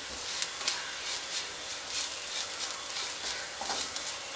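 Sliced onions, green chillies and spice powders sizzling in oil in a nonstick kadai, with a spatula stirring and scraping them in short strokes as the masala is sautéed until its raw smell goes.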